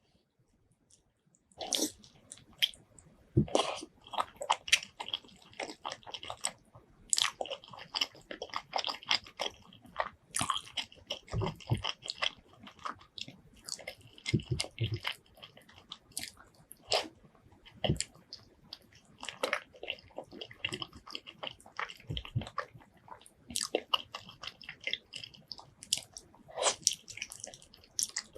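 A person eating spicy pork leg curry with white rice: wet chewing, biting and lip-smacking, made up of many sharp irregular smacks and clicks. It starts about a second and a half in.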